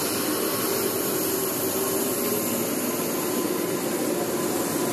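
Steady hiss and hum with a faint low whine from two double-deck electric trains at the platform as they begin to pull away.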